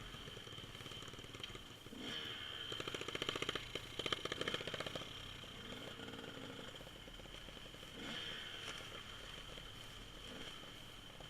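Dirt bike engine running at a distance, revving up with a fast rapid pulsing between about two and five seconds in, then settling back to a steady run.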